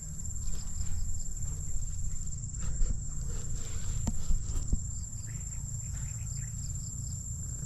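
Steady high-pitched drone of insects, with a low rumble underneath and a few short knocks partway through.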